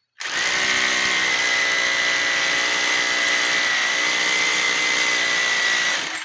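Bosch Extreme SDS-plus hammer drill hammer-drilling into concrete: one steady run at full speed with a high whine over the motor. It starts just after the start and cuts off suddenly about six seconds in.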